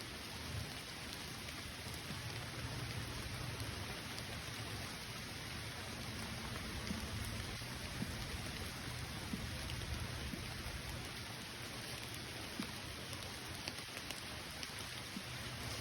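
Steady rain falling on the forest around, an even hiss with scattered distinct drop ticks.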